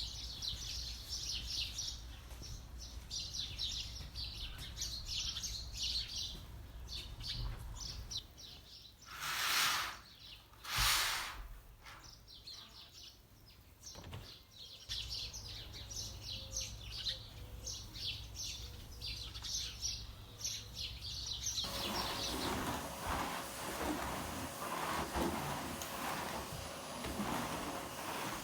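Small birds chirping and singing continuously, broken by two short, loud rushes of noise about nine and eleven seconds in. At about twenty-two seconds the birdsong stops and gives way to a steady low hum with light clattering.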